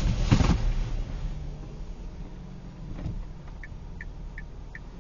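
A car's low road and engine rumble, with a sharp knock about a third of a second in, dying down to a quieter steady drone. From past halfway, short high beeps repeat at an even pace, about two and a half a second.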